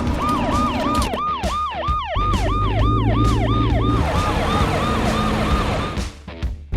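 Cartoon emergency-vehicle siren sound effect: a fast repeating wail of about three sweeps a second, fading out near the end, over background music.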